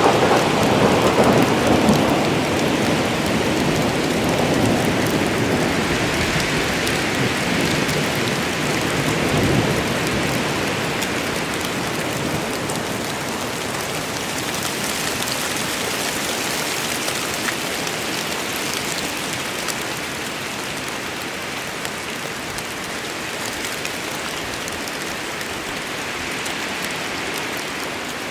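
Steady heavy rain falling in a forest thunderstorm, with a rumble of thunder rolling away and fading over the first ten seconds or so.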